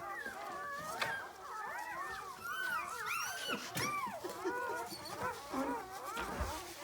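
Many puppies crying at once: short, high cries that rise and fall in pitch and overlap one another.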